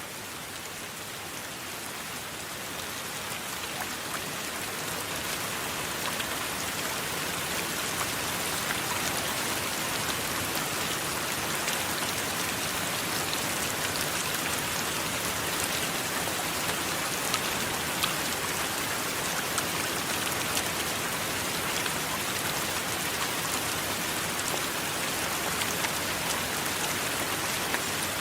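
Steady rain, a dense even hiss with scattered sharp ticks of individual drops, building slightly in the first several seconds and then holding level.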